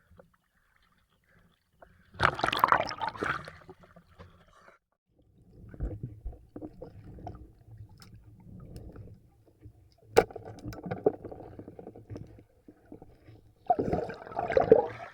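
Water splashing and sloshing in irregular bursts as someone moves through a flooded river, with one sharp click about ten seconds in.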